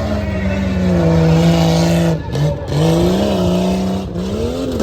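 Tough-truck competition truck engine running at high revs, easing off briefly about two seconds in and again near the end, then picking back up.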